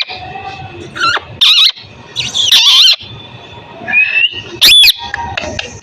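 Pet parrot giving a series of about five loud calls, some harsh and shrill and some pitched, with short gaps between them.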